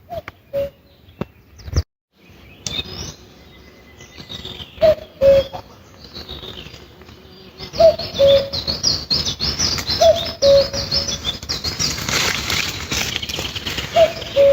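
Common cuckoo calling its two-note cuckoo, a short higher note falling to a longer lower one, repeated about five times. Small songbirds chirp faintly, and from about halfway through the steady rustle and crackle of footsteps through tall grass grows louder.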